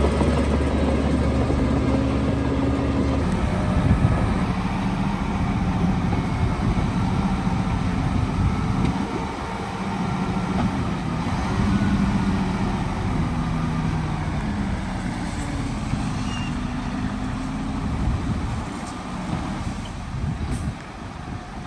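Heavy diesel engine of construction machinery running under varying load. It holds a steady pitch for about three seconds, then its pitch shifts up and down, and it grows a little quieter near the end.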